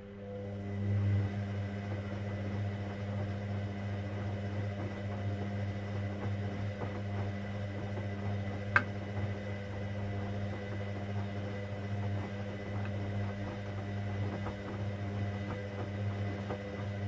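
Hoover Dynamic Next washing machine's pump humming steadily for about seventeen seconds, then stopping, with one sharp click about halfway through.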